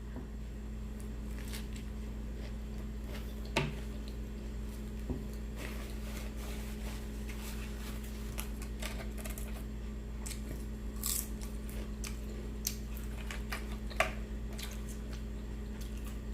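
Quiet eating sounds: chewing with scattered small sharp clicks and ticks, over a steady low electrical hum.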